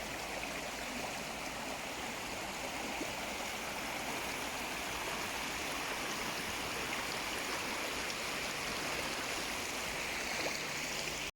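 A woodland stream flowing, a steady even rush of running water.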